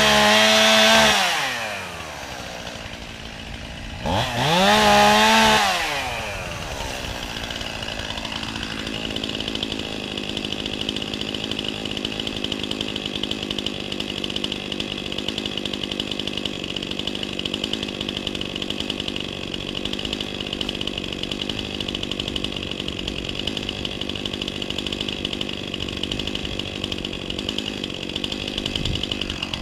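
Two-stroke chainsaw engine at high revs that falls away to idle about a second in, is revved up once briefly around four seconds, then idles steadily.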